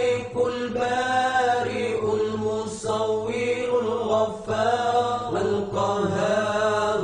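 Solo Arabic voice chanting the names of God in long, drawn-out melodic phrases, with short breaks between them.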